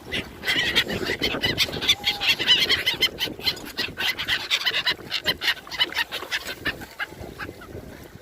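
A large flock of gulls calling, many short, overlapping cries at once, thinning out over the last few seconds.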